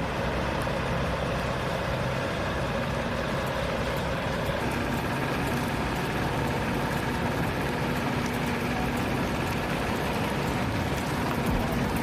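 Heavy-haul trucks' engines running steadily under a heavy load, a constant noise with faint engine tones.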